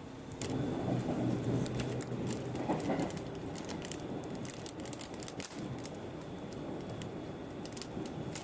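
Aichi Loop Railway train heard from inside the carriage while running: a steady rumble of wheels and motors that grows louder about half a second in, with a low hum for the first few seconds and many scattered light clicks.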